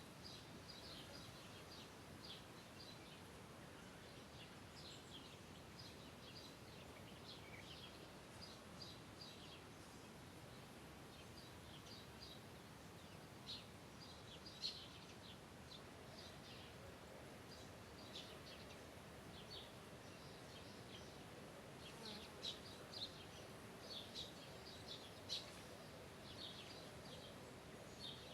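Faint outdoor ambience: scattered short, high chirps from small birds, coming irregularly and a little more often in the second half, over a soft steady hiss.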